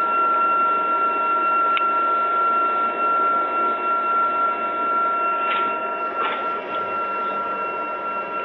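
Pellet fireplace running: a steady fan whine with several fixed tones over an even whirring hum, with a couple of short ticks a little past the middle.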